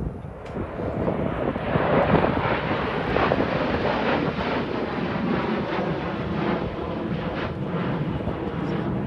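Jet aircraft flying past: a broad roar that swells over the first two seconds and then holds steady.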